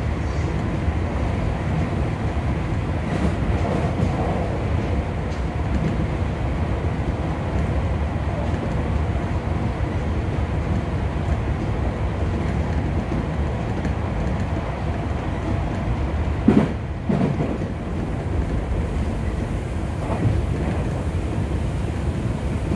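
Running noise inside a Tokyu 3000 series commuter train car at speed: a steady rumble of wheels on rail, with two quick knocks about three-quarters of the way through.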